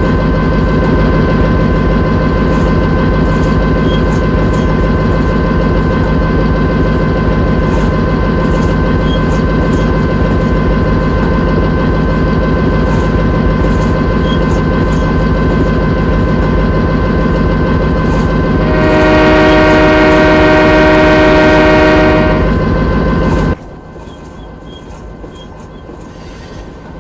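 Railway locomotive running with a loud, steady rumble and whine. A little over two-thirds of the way in, its train horn sounds once for about three seconds. Shortly after, the sound drops suddenly to a quieter rumble.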